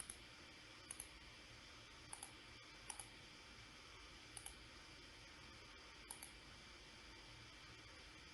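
Computer mouse clicking, about six short clicks, mostly in quick pairs a second or two apart, over a faint steady hiss.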